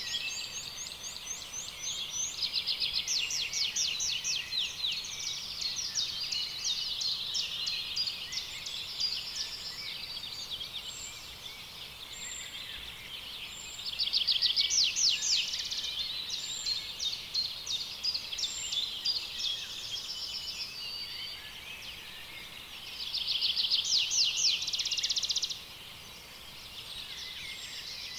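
Several birds singing at once: dense high chirps and rapid trills, with two louder runs of fast trilling, one about halfway through and one near the end.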